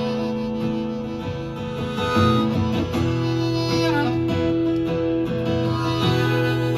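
Acoustic guitars playing an instrumental break in a country-Americana song, with strummed chords.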